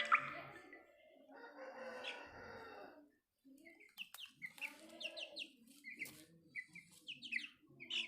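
Aseel hen clucking low and repeatedly while her chicks peep in short high chirps, starting about four seconds in. A music note fades out at the very start.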